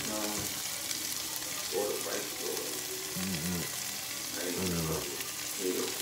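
Diced peppers, garlic and mushrooms frying in a pan, giving a steady sizzling hiss.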